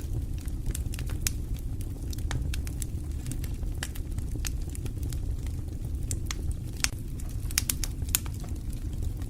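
Wood fire burning in a fireplace: a steady low rumble of flames with irregular sharp crackles and pops, a few louder pops about three-quarters of the way through.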